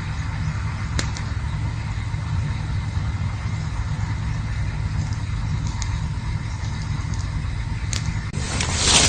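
Campfire burning: a steady low rumble with a few sharp crackling pops, then a sudden loud rushing hiss near the end.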